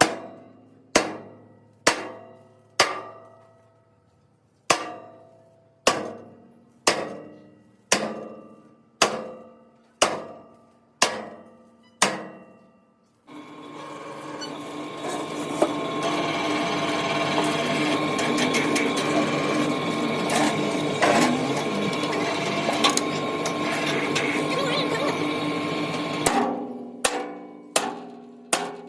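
Hammer blows on steel truck body panels, about one a second, each ringing and dying away. In the middle comes a long stretch of dense, steady noise, and near the end the blows return, faster, about two a second.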